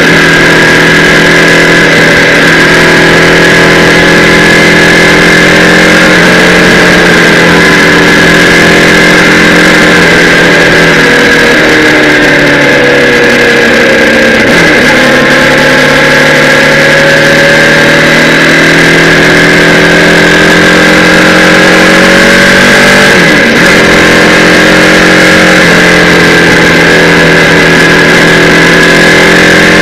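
Kawasaki Z800's inline-four engine running under way, heard from a camera mounted on the bike, its pitch stepping up and down with throttle and gear changes. It dips sharply about halfway through and again about three-quarters of the way in.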